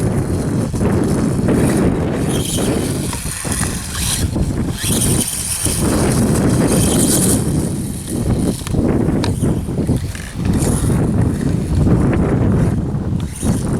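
Wind buffeting the microphone, with the high whine of a radio-controlled electric dirt bike's motor rising and fading several times as it drives.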